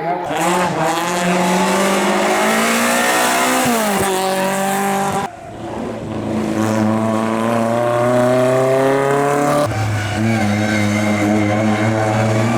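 Race car engine accelerating hard, its pitch climbing and then dropping at each gear change. About five seconds in, the sound breaks off suddenly and another run of rising engine pitch follows.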